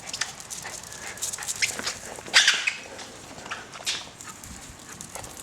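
Dogs whimpering, with scattered short sharp sounds; the loudest comes a little over two seconds in.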